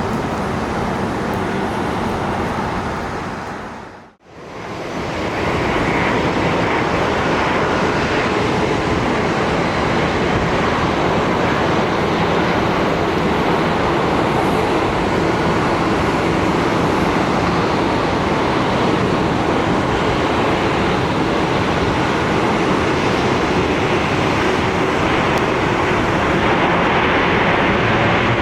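Steady roar of a jet airliner's engines, dipping out briefly about four seconds in and coming back just as steady.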